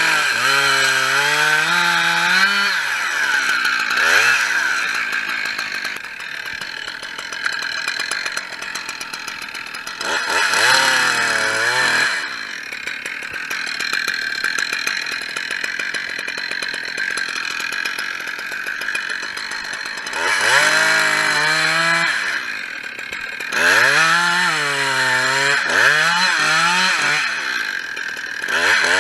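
Petrol chainsaw cutting lime tree wood: it revs up hard in repeated bursts and drops back to a lower idle between cuts.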